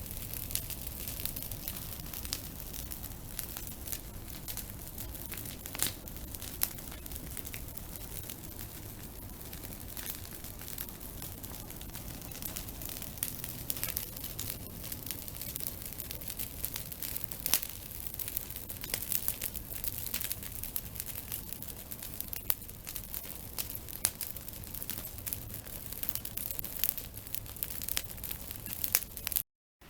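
Campfire burning, crackling steadily with frequent irregular sharp pops.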